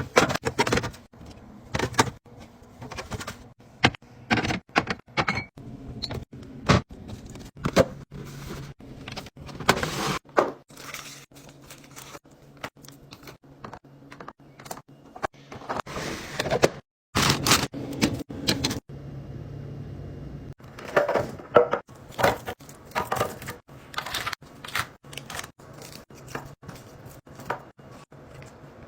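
Containers being set into a fridge: a quick, uneven run of clinks, taps and knocks as bottles, cans and plastic tubs are placed on the shelves and door racks. There is a short break about two thirds of the way through, then the clattering carries on.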